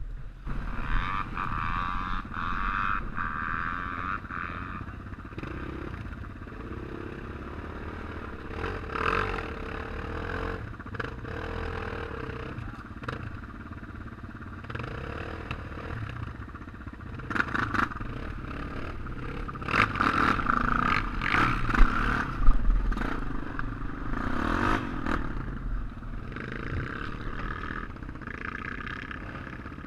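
Off-road motorcycle engines revving and running at changing speed, with clattering knocks over them; the revving is loudest about two thirds of the way through.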